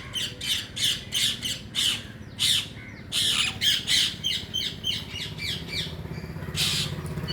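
Rose-ringed parakeets squawking: a rapid run of harsh, shrill calls, several a second, with a brief pause after about two seconds and one last loud call near the end.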